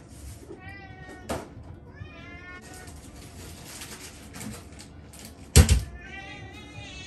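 Domestic cat meowing several times, short high calls near the start and again near the end, as it waits for its breakfast. A loud sharp knock, the loudest sound, comes about five and a half seconds in.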